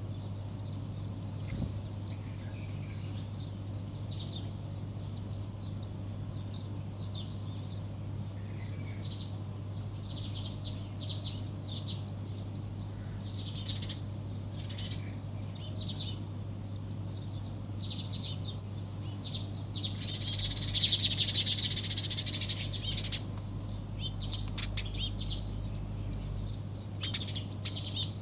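Birds chirping: many short high chirps that grow busier partway through, with a louder burst of dense chirping about twenty seconds in, over a steady low hum.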